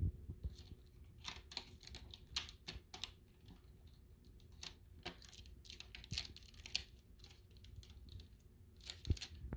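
Cardboard and plastic packaging of a large TV being handled and pulled at: scattered rustles, scrapes and light taps.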